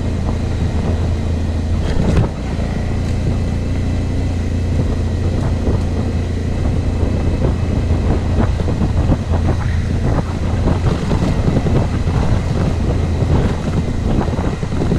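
Suzuki V-Strom motorcycle engine running steadily under way, with wind noise on the microphone.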